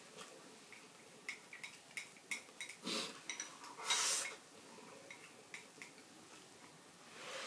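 Light clicks of tableware while eating, a quick run of small taps against a dish, followed by two short breathy rushes, like breaths or slurps.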